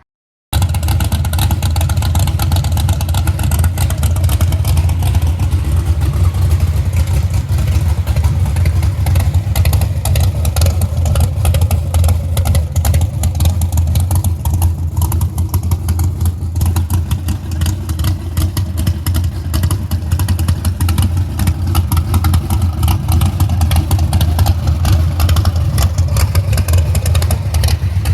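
A 496 cubic-inch big-block Chevrolet V8 in a 1978 Pontiac Trans Am race car running steadily, its exhaust exiting through custom fender-exit headers; the loud engine sound comes in abruptly about half a second in and holds at a fairly even level throughout.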